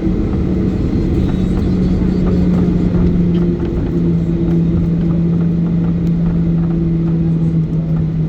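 Cabin noise of a Boeing 737-800 with its CFM56 jet engines running: a dense low rumble with a steady engine hum that drops slightly in pitch about four seconds in.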